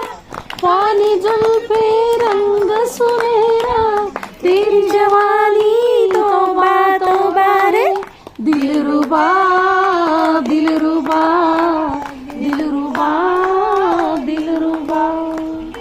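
A high voice singing a song melody without clear words, in long held and gliding phrases, with a pause about halfway through. Scattered hand claps sound along with it.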